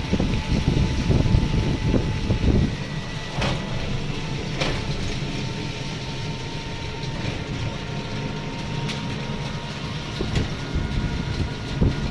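Riding in a moving e-rickshaw (toto): steady road and vehicle noise, with heavy wind buffeting on the microphone for the first few seconds, then calmer, broken by a few sharp knocks and rattles.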